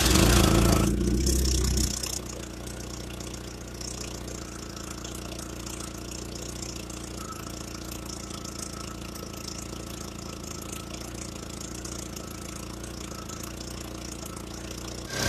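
1998 Chevrolet Cavalier's 2.2-liter four-cylinder engine, just started, running fast and loud for about two seconds, then settling to a steady idle.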